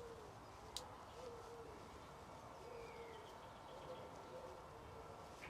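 Faint low bird calls, each a short arched note at the same pitch, repeating about every one and a half seconds, with one soft click about three-quarters of a second in.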